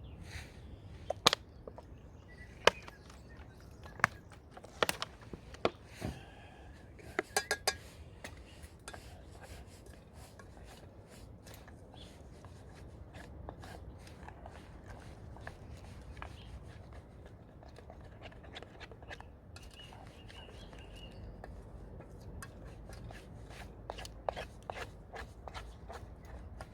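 Spoon clinking and scraping against a camp cooking pot while stirring, with several sharp knocks in the first eight seconds, then lighter, scattered taps.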